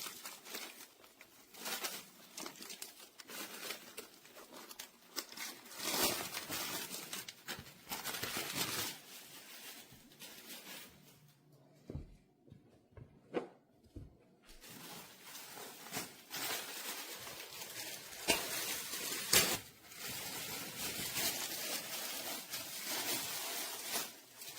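Plastic packaging crinkling, rustling and tearing as a foam dog bed is unwrapped and handled, in irregular spells. A few soft thumps come about halfway through, and a sharp knock a little past two-thirds in.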